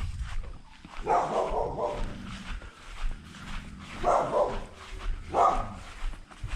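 A dog barking: three calls, about a second in, about four seconds in and about five and a half seconds in, the first the longest.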